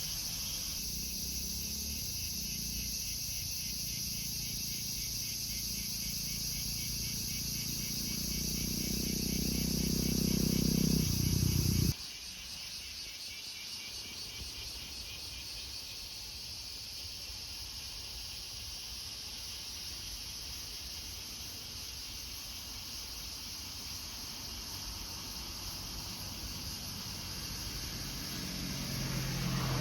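An outdoor insect chorus: steady high-pitched chirring that goes on throughout. A vehicle approaches and grows louder until an abrupt cut about twelve seconds in, and another vehicle draws near at the very end.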